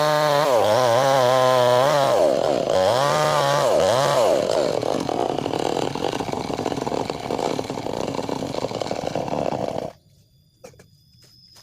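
Chainsaw cutting lengthwise through a log to split it. Its engine pitch rises and falls repeatedly for the first four seconds, then it saws steadily. The sound cuts off suddenly about ten seconds in, leaving a few faint ticks.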